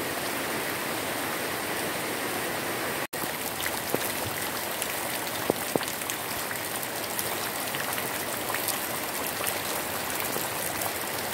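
Heavy tropical rain pouring on garden leaves and lawn: a steady dense hiss with scattered drop taps, broken by a split-second dropout about three seconds in. Muddy runoff water streams along a channel through the grass underneath it.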